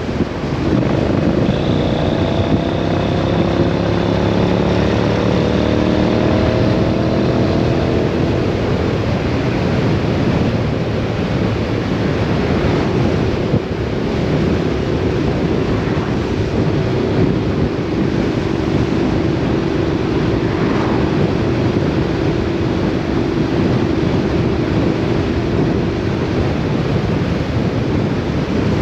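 Vehicle engine running on the road under heavy wind rush on the microphone. The engine pitch climbs gently for the first several seconds, then settles to a steady drone.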